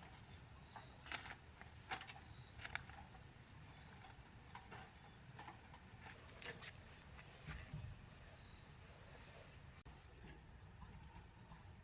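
Near silence: a faint steady high trill like insects, with scattered light clicks and taps.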